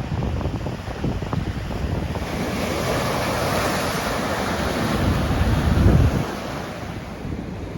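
Ocean waves crashing and washing, with wind buffeting the microphone. A wave's rush swells about two seconds in, and a heavy low rumble peaks near six seconds before dropping away.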